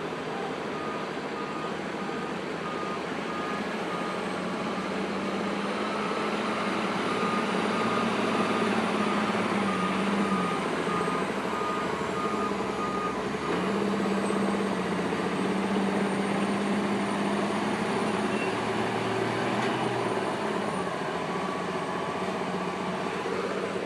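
Cat 320C excavator's diesel engine running under working load, its pitch rising, dipping sharply about halfway through and climbing again. A reversing beeper sounds steadily through roughly the first half.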